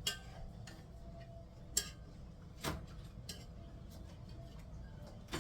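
About five scattered light clicks and knocks of kitchen utensils against a metal cooking pot, over a low steady hum.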